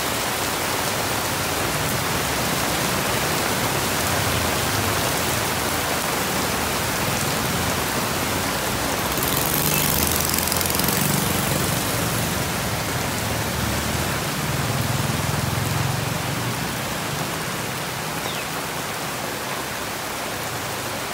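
Heavy tropical rain pouring onto a wet street and pavement in a steady hiss. Motorbikes ride past through it, loudest around the middle.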